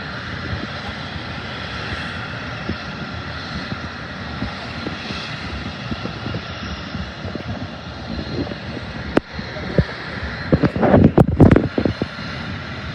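Aircraft engine drone, steady with a faint whine. About ten seconds in, a cluster of loud thumps and crackles comes in briefly.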